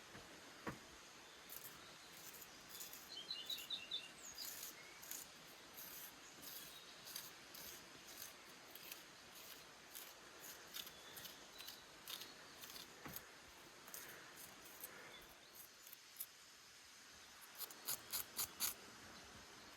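Faint outdoor ambience: sharp high clicks scattered throughout, with a quick run of them near the end, and a bird's short call of repeated high chirps a few seconds in.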